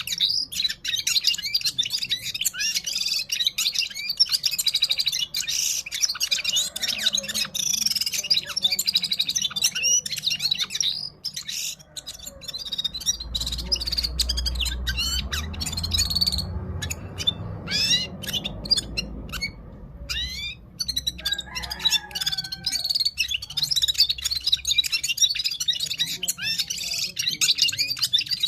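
A gulsar singing a fast, continuous song of rapid chirps and trills, thinning out briefly about halfway through. A low rumble sits under the song in the middle.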